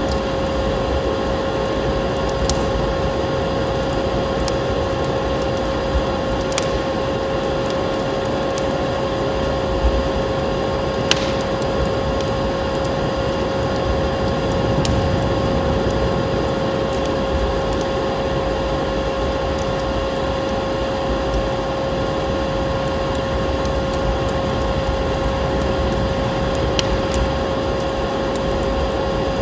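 Vacuum cleaner motor running steadily, a constant hum with a steady whine, with a few sharp crackles and pops from a wood fire.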